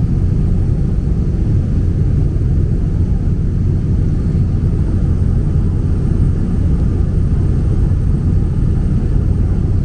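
A small passenger plane's engine and propeller running steadily, heard from inside the cabin as a loud, even low drone.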